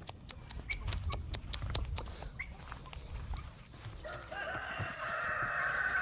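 A few light clicks and taps, then about four seconds in a rooster crows, one long call that is the loudest sound here.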